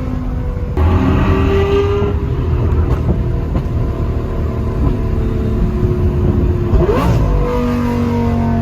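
Lamborghini Gallardo Superleggera's 5.0-litre V10 through an aftermarket exhaust, revving hard in a tunnel. The pitch climbs sharply about a second in and then sinks. Near the end there is another quick rise in revs before it falls away again.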